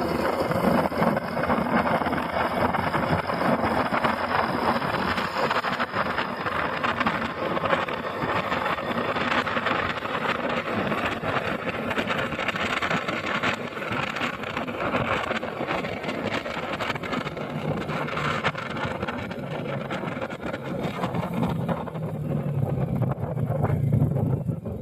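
Motorcycle running on the move, with heavy wind noise buffeting the microphone. A deeper engine note grows louder near the end.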